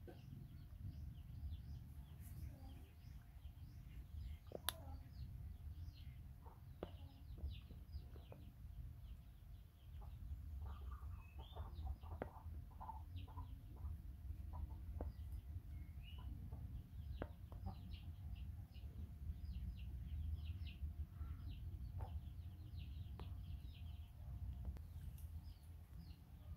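Faint background of short bird calls and chirps scattered throughout, over a low steady rumble.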